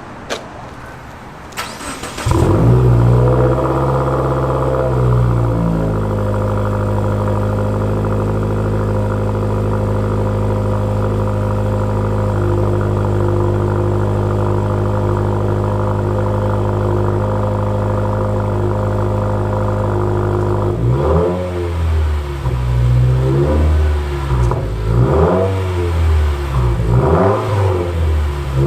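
Turbocharged Subaru flat-four starting through a muffler-delete axleback exhaust about two seconds in, idling high for a few seconds and then settling to a steady idle. Near the end it is revved repeatedly in short blips.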